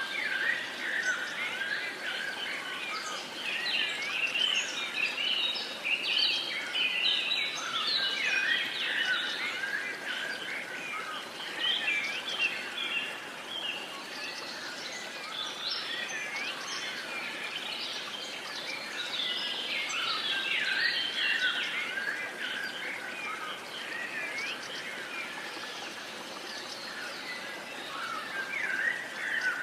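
Dawn-chorus-style birdsong: many birds chirping and singing at once in dense, overlapping short phrases, over a faint steady hiss.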